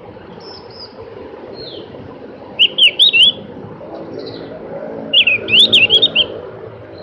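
Javan grey-throated white-eye (opior jawa) singing: two short bursts of quick, loud warbling notes, one about two and a half seconds in and a longer one about five seconds in, with a few fainter high notes before them. A low steady hum runs underneath.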